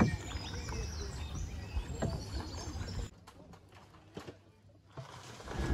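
Birds chirping over a low rumble that drops away about three seconds in.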